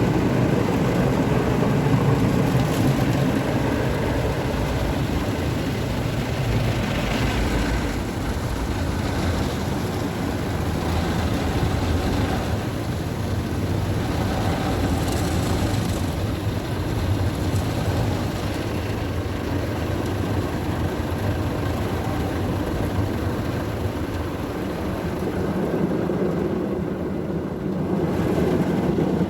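Istobal MNEX 22 automatic car wash machine running steadily through its cycle around the car, a continuous mechanical rush with small swells in level.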